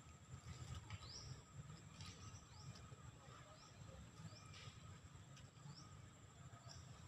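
Faint outdoor ambience: a few short, high, rising bird chirps, about one a second, over a low rumble and a steady high tone.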